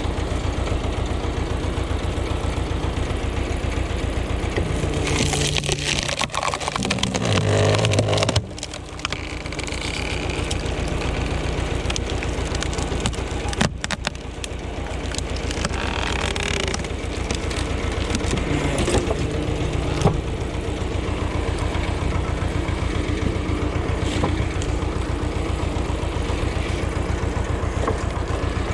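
Ursus tractor engine running with an even chug. About five seconds in it grows louder and higher as it takes load, then drops off suddenly at about eight and a half seconds, with shorter surges later on: the engine working while splitting wood.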